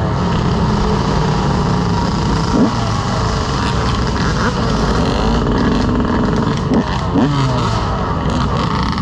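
Dirt bike engines running on a ride, with short throttle blips that rise in pitch, about two and a half seconds in and again around seven seconds.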